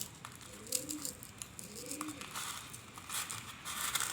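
Pigeons cooing, a few soft low rising-and-falling calls about a second apart. Under them come faint crinkling and crackling clicks of food being crumbled by hand.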